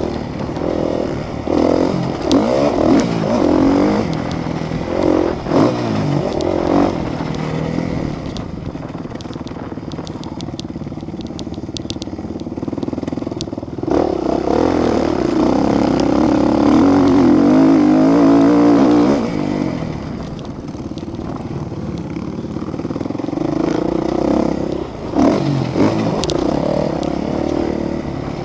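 Motocross motorcycle engines racing, revving up and down as the bikes accelerate and shift. The loudest stretch comes a little past the middle, lasting about five seconds, as a bike runs close.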